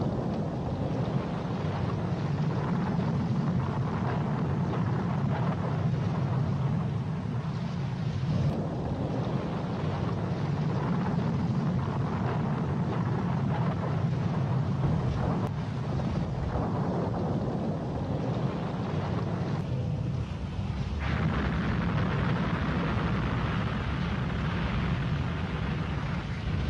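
Boat under way: a steady, loud rumble of engine and rushing wind and water noise.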